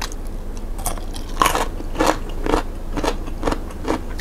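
Chewing a crunchy mouthful of greens, with sharp crunches about twice a second.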